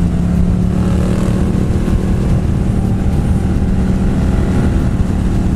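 Motorcycle engine running at a steady cruising speed, its pitch holding level, with wind and road noise.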